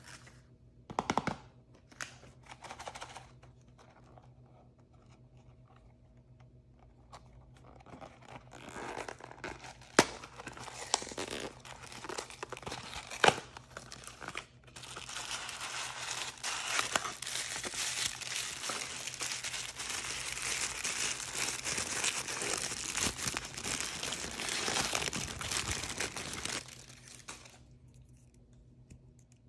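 Blind-bag packaging being torn open and crinkled by hand. A few scattered clicks at first, then rustling with a couple of sharp snaps, then about twelve seconds of dense, continuous crinkling that stops shortly before the end.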